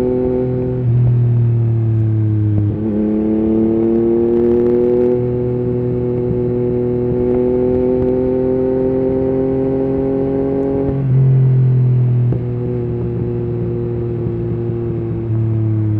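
Yamaha MT-09's inline-three engine through an Akrapovic carbon exhaust with the dB killer removed, under way: the engine note climbs steadily, drops sharply about 3 s in and again about 11 s in as the rider shifts up, then eases off slightly toward the end.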